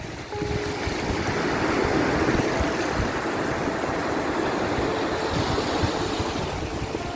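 Sea waves washing in, a steady rushing noise that swells about two seconds in.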